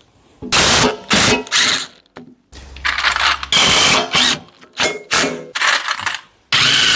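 Metal clanking, clinking and scraping as a heavy steel hydraulic lever valve block is handled and set into place on the splitter frame, with a few short ringing metallic squeals.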